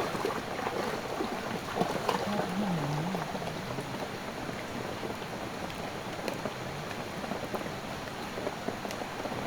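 Steady rain falling, an even patter of drops, with a short wavering low tone about two seconds in.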